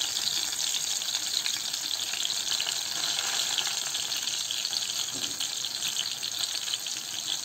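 Garlic and onion frying in oil in a pan: a steady sizzle with fine crackling, the garlic and onion now browned.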